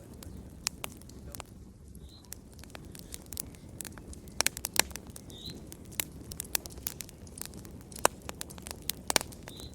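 Wood fire crackling in a fireplace: irregular sharp pops and snaps, a few louder than the rest, over a low steady rush of the flames.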